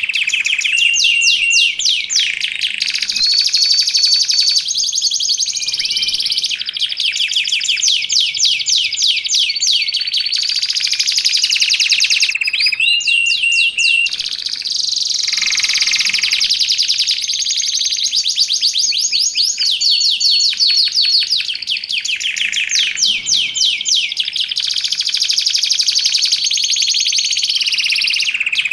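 Domestic canary singing continuously: fast trills of rapidly repeated notes that switch to a new pattern every second or two, mixed with short held whistled notes.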